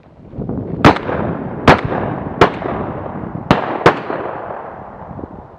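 Five shotgun shots fired at a flushing bird, spread over about three seconds with the last two close together, each echoing and fading slowly afterwards.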